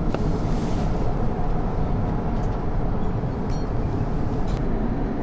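Steady cabin drone of an Airbus A350-900 airliner in flight: engine and airflow noise, even and low-heavy, with a few faint light ticks.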